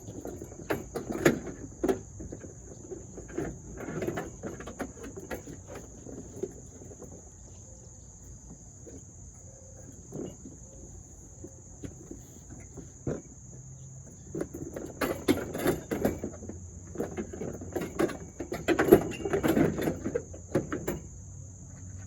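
Crickets chirping in a steady high drone throughout, with scattered knocks and rattles from work on the car: a few around the first seconds and a busier run of clatter near the end.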